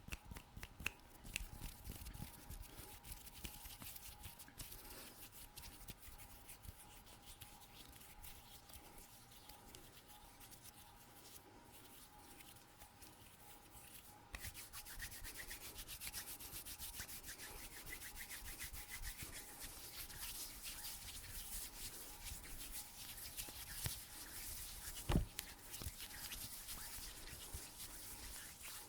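Close-miked hands rubbing and scratching in a fast, continuous scratchy texture that grows louder and brighter about halfway through. One sharp click a few seconds before the end.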